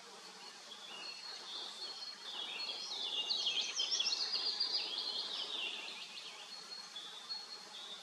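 A songbird sings a fast, warbling phrase of high chirps and glides from about two and a half to six and a half seconds in. Under it is the faint, steady hum of honeybees flying around their hive.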